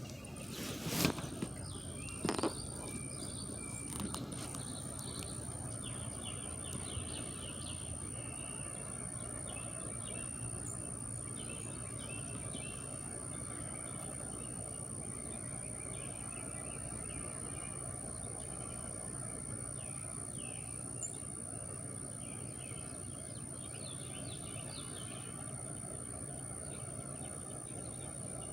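Outdoor ambience: a steady low rumble of background noise with small birds chirping on and off, and a steady high whine. There are two sharp knocks, about one and two seconds in.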